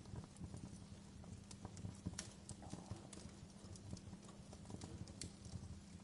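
Wood fire crackling in a fireplace: irregular sharp snaps and pops, some louder than others, over a steady low rumble.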